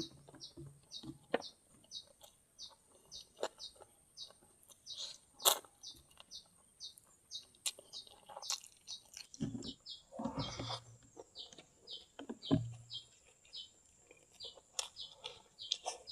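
A small bird chirping over and over, two to three short high chirps a second, over scattered sharp clicks and a few soft low noises from eating.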